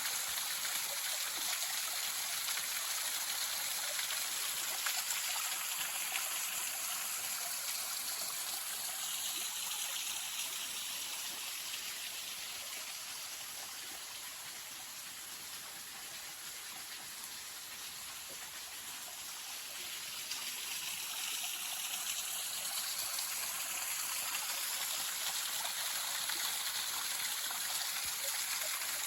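Small mountain waterfall: a steady hiss of falling water that grows quieter around the middle and comes back up toward the end.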